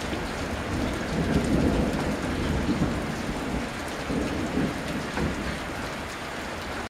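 Steady rain on a surface with thunder rumbling, the rumble swelling about a second in and again near the end. The sound cuts off suddenly at the end.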